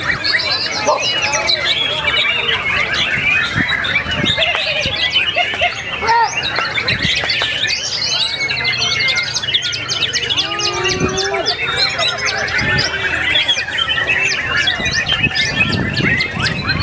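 Several white-rumped shamas (murai batu) singing at full volume at once, a dense, unbroken mix of fast whistles, trills and mimicked calls.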